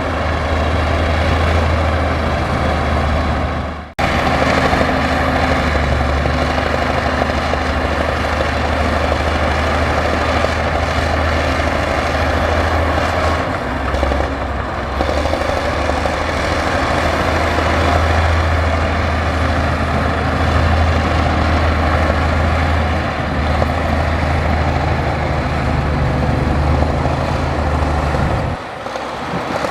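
Heavy earthmoving machinery's diesel engine running steadily under load, a continuous deep drone. The sound drops out abruptly about four seconds in and dips again near the end.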